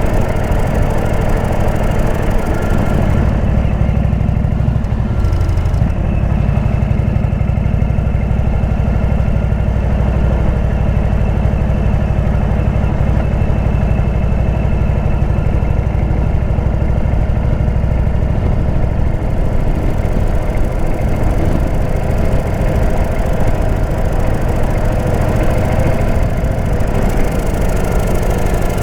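Indian V-twin motorcycle engine with a Jekill & Hyde exhaust running steadily, with a deep, even exhaust note.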